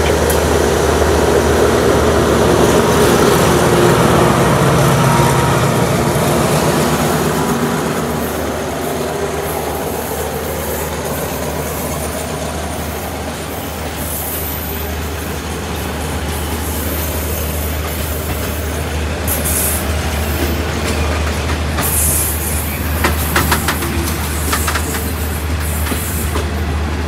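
Train running on the rails, heard from aboard: a steady low rumble of wheel and rail noise, louder for the first several seconds and then easing, with a few sharp clacks about 23 seconds in.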